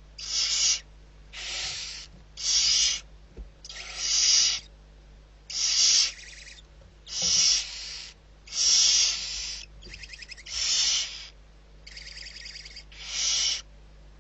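Barn owl giving a series of harsh hissing calls, about eleven of them, one every second or so, a few with a rasping edge.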